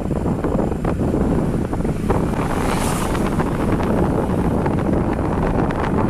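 Steady wind buffeting the microphone from a moving vehicle, with road and engine noise underneath.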